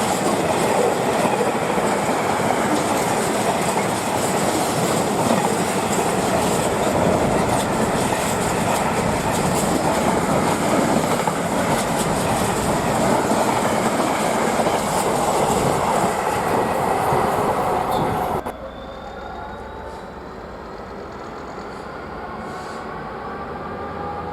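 A train passing close by, with loud, steady wheel-on-rail noise that stops abruptly about 18 seconds in. After that comes a quieter rising whine in several tones.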